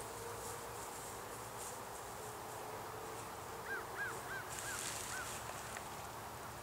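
A bird calling five short, quick chirps about halfway through, over steady background noise.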